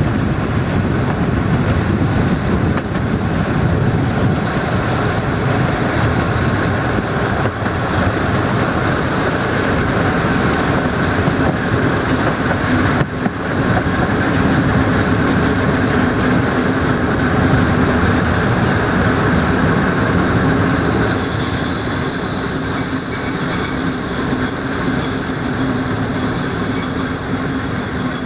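Passenger train coaches rolling along the track at speed, a steady loud rumble of wheels on rails. About three-quarters of the way in, a high steady wheel squeal sets in and holds.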